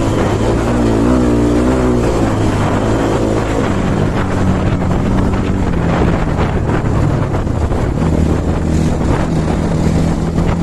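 Dirt bike engine running, its pitch rising and falling as it is revved for the first few seconds, then settling to a steadier, lower note.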